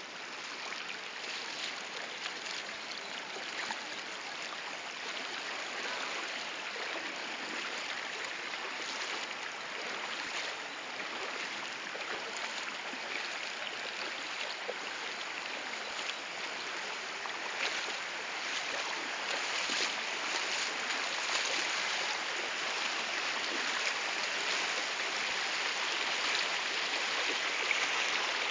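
Floodwater rushing in a steady, continuous flow, growing a little louder past the middle.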